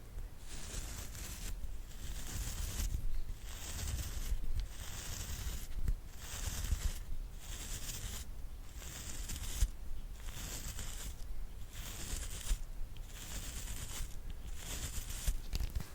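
Soft brush bristles swept in slow, repeated strokes, a swish about once a second, each stroke a high, airy hiss with short pauses between.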